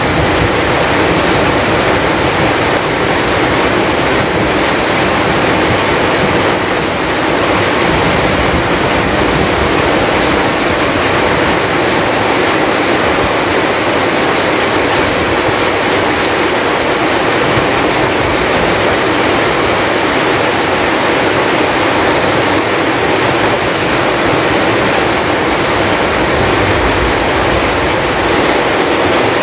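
Steady heavy rain pouring down, an even, unbroken hiss that stays loud throughout.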